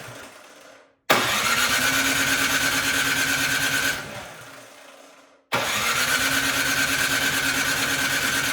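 Electric starter cranking a Craftsman snowblower engine in two long bursts, a rapid even chugging with a steady starter whine, each spinning down without the engine catching. The engine won't start: it has spark, and the mechanic suspects a dirty carburetor.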